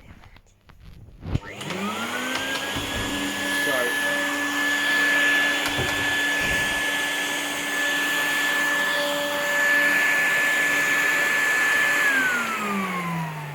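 Henry vacuum cleaner switched on, its motor whine rising quickly to a steady high pitch, running for about ten seconds, then switched off and winding down with falling pitch. It is running without a spacer in the filter, so the filter is sucked in close to the air intake and the motor is struggling more.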